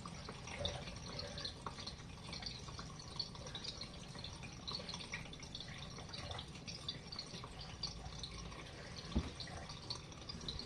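Water draining out of a compact washing machine's tub, with trickling and scattered drips over a low steady background.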